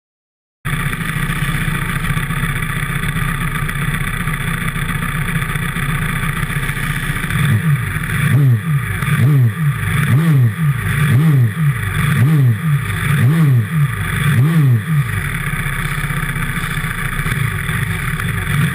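Pit bike engine running, then revved up and down about once a second, seven or eight times, from about halfway through.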